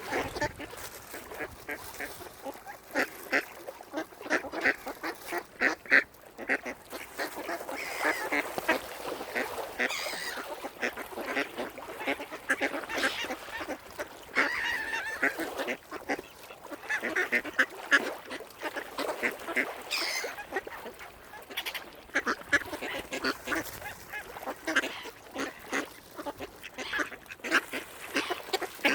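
Several waterfowl calling: many short honking and quacking calls in quick, overlapping succession.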